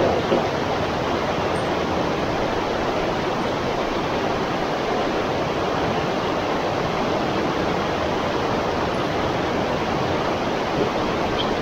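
Steady rush of flowing river water, an even unbroken roar as from rapids.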